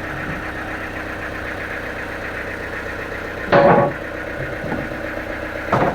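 An engine idling steadily, broken twice by a short loud sound, once about halfway through and again near the end.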